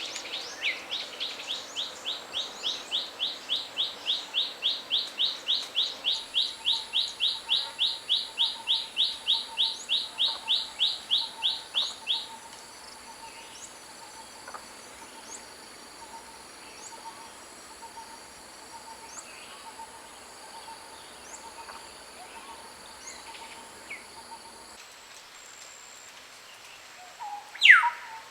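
A bird singing a rapid, even series of sweeping whistled notes, about four a second, growing louder for some twelve seconds before stopping. A steady high insect drone and faint lower bird notes run behind it. Near the end a single loud call sweeps steeply downward.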